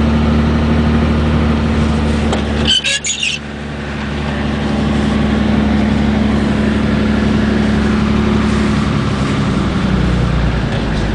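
Car engine running steadily, heard from inside the moving car's cabin. About three seconds in there is a brief cluster of high squeaks, and the engine sound drops away for a moment, then builds back up.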